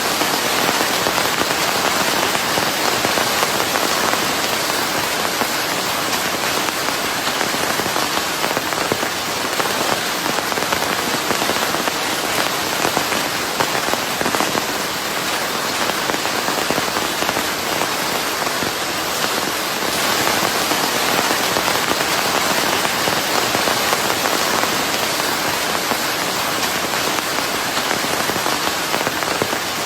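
Steady rain, a dense even hiss of falling drops, blended with white noise.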